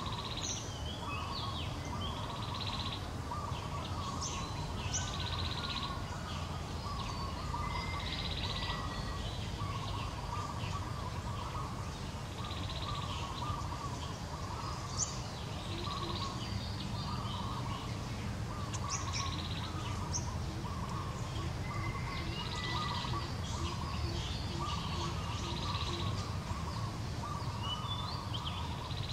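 Outdoor ambience of birds calling over and over, short calls every second or two above a continuous fluttering chatter, over a steady low rumble.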